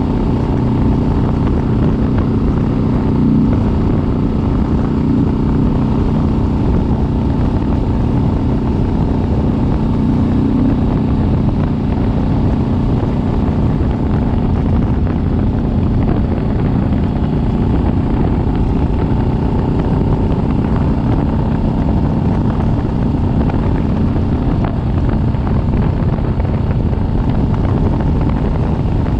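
Kawasaki Vulcan S 650's parallel-twin engine running at a steady cruise, holding an even note, under a constant rush of road and wind noise.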